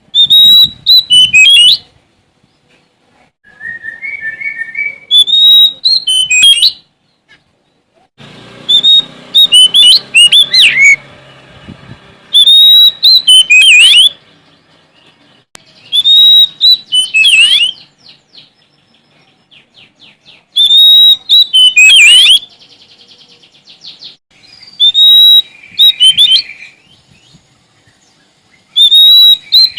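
Oriental magpie-robin (Sumatran kacer) singing: loud phrases every few seconds, each opening on a held high whistle that breaks into rapid twisting notes, with a fast buzzy trill between two of them.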